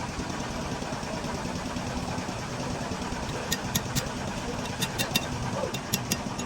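Engine idling steadily. From about halfway in come a series of sharp, high clinks, like metal striking metal.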